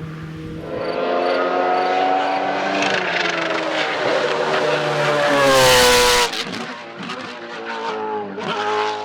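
Hillclimb race car's engine at full revs as it approaches and passes close by, its pitch bending down as it goes past about six seconds in, where it is loudest. The sound cuts off abruptly, and a fainter engine tone carries on after.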